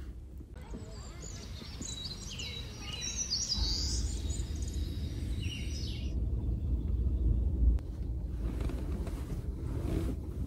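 Small birds chirping, many short high calls during the first six seconds, over a low steady rumble.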